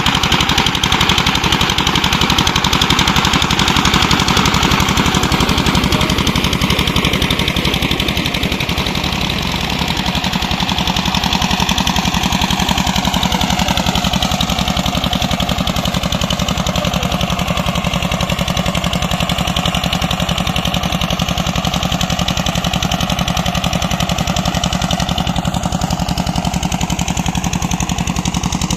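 Single-cylinder Petter diesel engine running steadily, driving a tubewell pump, with a rapid, even chugging beat. Its pitch sags slightly and recovers around the middle.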